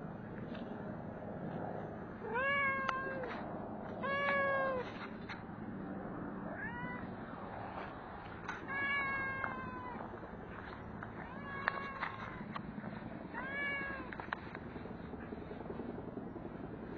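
A stray cat meowing repeatedly: about six separate meows, each rising then falling in pitch, with pauses between them.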